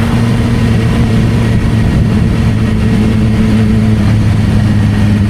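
Suzuki GSR600's inline-four engine running through an aftermarket Dominator exhaust, holding a steady, even pitch.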